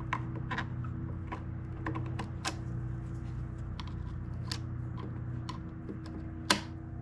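Irregular small clicks and taps of hands and tools working the throttle cable and plastic housing of a backpack blower, with one sharp, louder click near the end. A steady low hum runs underneath.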